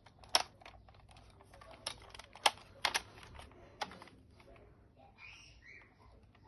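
Sharp plastic clicks and clacks from a Nerf Elite 2.0 Commander toy blaster being handled and worked, coming irregularly, about half a dozen loud ones within the first four seconds.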